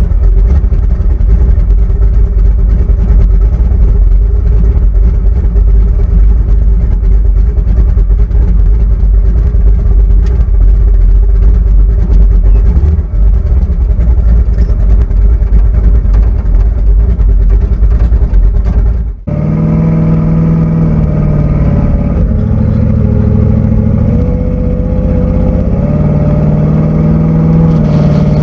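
Twin-turbo big-block Chevrolet V8 running under way, a loud steady low drone. About two-thirds of the way in the sound cuts abruptly to a different take, where the engine note rises and falls with the throttle.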